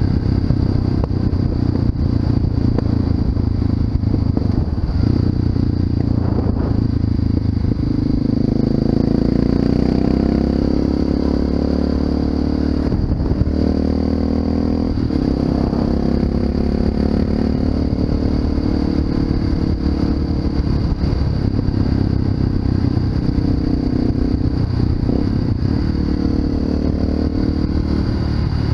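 Honda FMX 650's single-cylinder engine through an Arrow exhaust, running while the bike is ridden. The exhaust note climbs and drops in pitch several times as the rider accelerates and changes gear.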